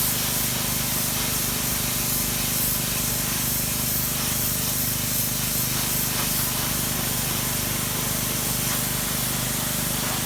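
Pressure washer blasting a high-pressure water jet against cedar siding to strip old paint: a steady hiss of spray over a steady low hum.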